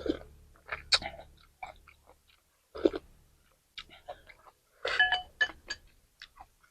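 Close-up eating sounds of someone chewing and slurping a bowl of noodle soup, heard as irregular short wet smacks and clicks. A brief cluster of short tonal sounds comes about five seconds in.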